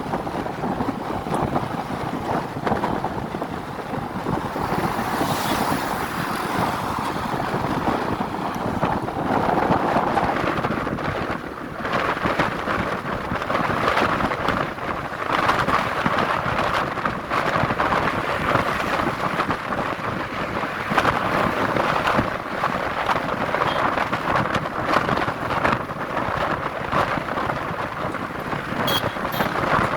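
Steady wind and road noise from a moving truck, with wind buffeting the microphone.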